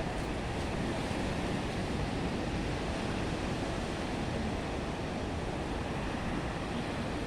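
Black Sea surf washing steadily, a continuous rushing noise of waves.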